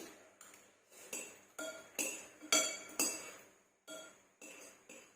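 Metal cutlery clinking against a dish while eating noodles: about ten sharp clinks at an uneven pace, each ringing briefly.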